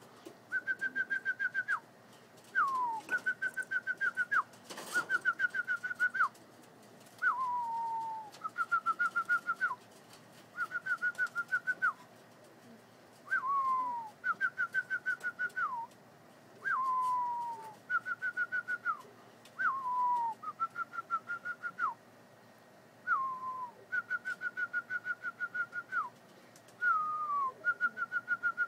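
A person whistling to call tippler pigeons down to the coop. Short falling whistles alternate with level, fluttering trills about a second long, repeated over and over every second or two.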